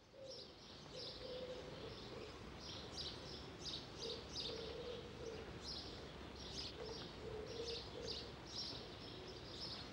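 Small birds chirping repeatedly and steadily in a rural outdoor ambience, with a lower call near the bottom that repeats a few times in phrases.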